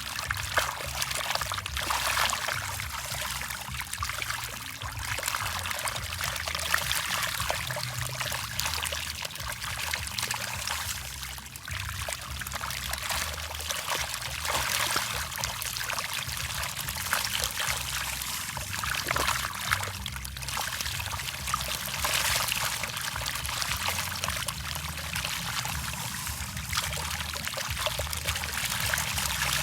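Water splashing and trickling steadily with many small crackling splashes, over a low steady hum.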